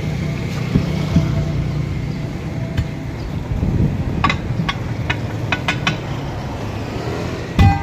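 Sharp metallic clinks and knocks, several in quick succession in the middle and one louder strike near the end, over a steady low rumble.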